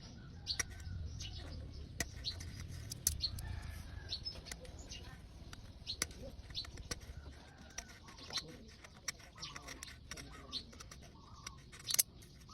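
Gasket scraper working old gasket material off a motorcycle engine's mating surface: short, irregular scrapes and clicks. Birds chirp faintly in the background.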